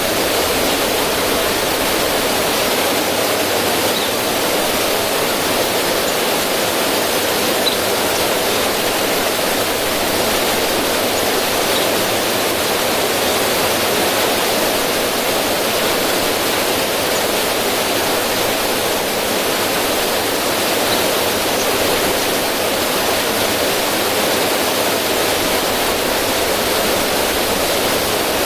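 River water rushing and splashing over rocks in a small cascade: a steady, unbroken hiss of running water.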